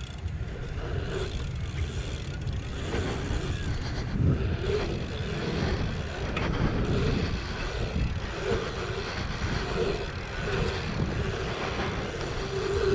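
Wind rushing over a helmet chin-mounted action camera as a BMX bike rides a dirt track, with tyre rumble and a few knocks over bumps.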